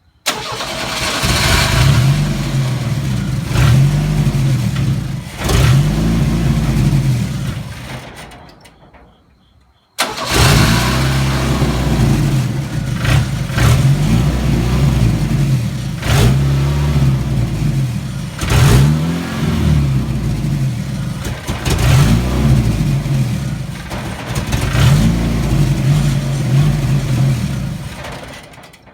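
Chevrolet S10 pickup engine revved over and over, its pitch rising and falling every couple of seconds. The owner is chasing a rough idle and hesitation in this engine. The sound fades out about eight seconds in and cuts back in abruptly about ten seconds in.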